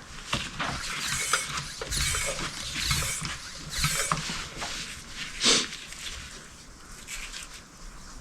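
Hand work on metal car parts: irregular clicks, knocks and short scraping sounds, with a louder clatter about five and a half seconds in.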